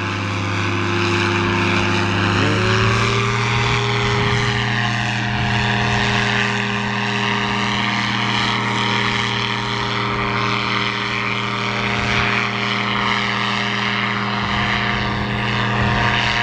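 Powered parachute's engine and propeller running steadily, its pitch stepping up a little about two and a half seconds in and then holding.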